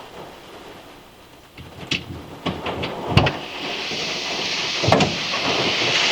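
A few sharp knocks and two heavier thumps, then a steady hiss of rain that swells louder about four seconds in.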